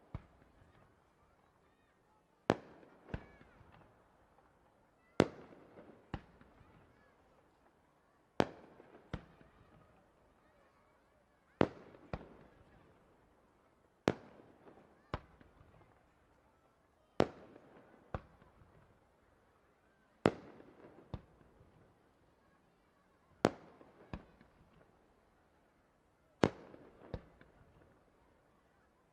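Fireworks shells bursting at a steady pace: a sharp bang about every three seconds, each followed within a second by a softer second bang, each trailing off briefly.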